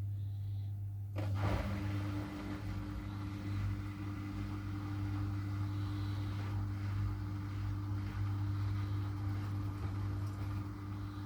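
A washing machine running: a steady low hum, joined about a second in by a sudden onset of a rushing, hissing noise and a second steady hum that carry on.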